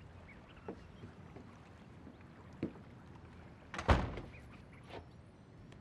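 Several faint knocks, then one loud, sharp thump about four seconds in, with a smaller knock about a second later.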